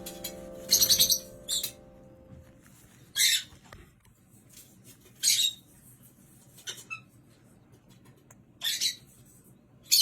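Rosy-faced lovebird giving short, sharp, high-pitched chirps, about half a dozen, spaced a second or two apart.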